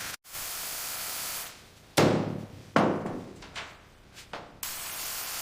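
Steady hiss of a high-pressure spray blasting dirt off the car's bodywork. About two seconds in it is broken by two sharp knocks with a short ringing tail and a few lighter taps, and the hiss returns near the end.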